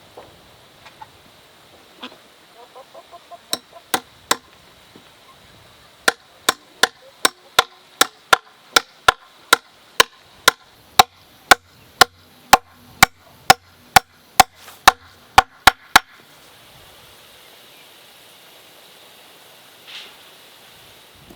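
A tool striking wood: a few scattered knocks, then a fast, even run of about two dozen sharp blows, about two and a half a second, that stops suddenly near three-quarters through.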